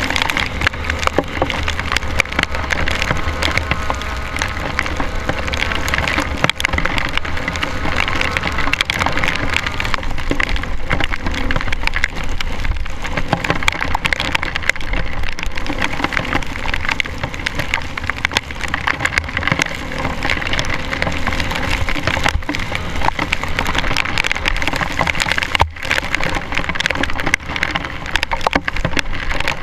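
Honda CRF450R single-cylinder four-stroke dirt bike engine running on a trail ride, heard through a dense, steady crackle of rain hitting the camera.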